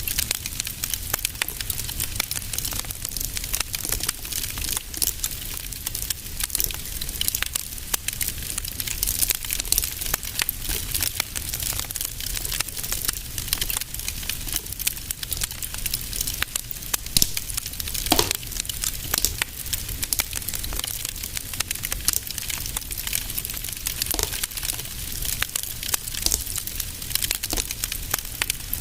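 Fire burning in a fireplace, crackling steadily with many small pops over a low, even rumble. One sharper, louder snap comes about two thirds of the way through.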